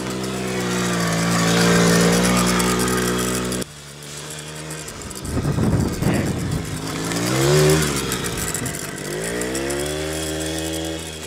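Small petrol quad bike engine running under a child's throttle, the revs rising and falling unevenly as it is ridden. The sound changes abruptly about three and a half seconds in, then the revs climb and dip again.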